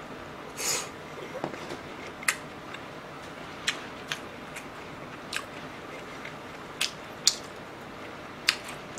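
Close-miked chewing of a mouthful of champon noodles: a short slurp just under a second in, then wet mouth smacks and clicks about once a second as the food is chewed.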